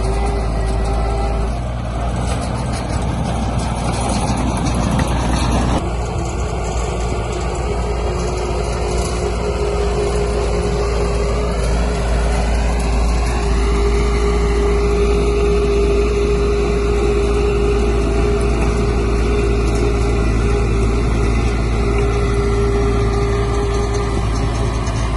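Heavy construction machine's diesel engine running steadily under load, with a rougher, noisier stretch a couple of seconds in and a rise in pitch about halfway through.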